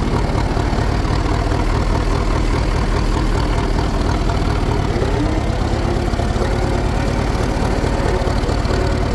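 Fordson E27N tractor engine idling steadily, its firing beat even and unchanging.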